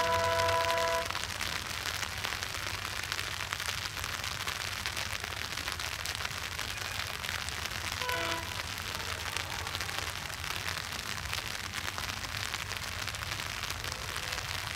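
Steady rain falling on an umbrella, with the distant horn of a WDG-3A diesel locomotive sounding for about a second at the start and a shorter, fainter toot about eight seconds in.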